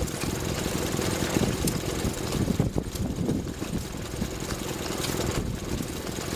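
Vintage stationary engine running steadily, with a rapid, even low chugging.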